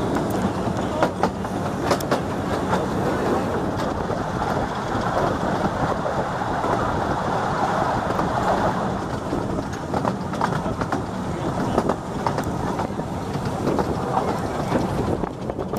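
A 15-inch gauge steam train heard from an open passenger carriage while it runs along the line: a steady running rumble of wheels on rail, with scattered clicks and clacks throughout.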